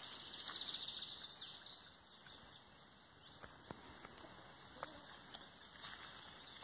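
Faint countryside ambience of small birds chirping: short, high, dropping calls about once a second, a trill in the first second, and a few light clicks.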